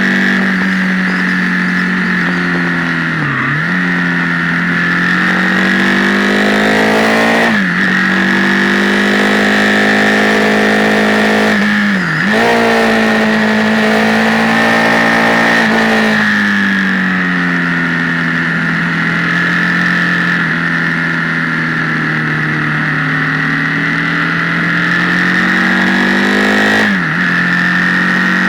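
Motorcycle engine running under way on a ride, its revs rising and falling, with about four brief sharp dips in revs. A steady high whine sits over it, and the camera's microphone makes it sound heavily amplified.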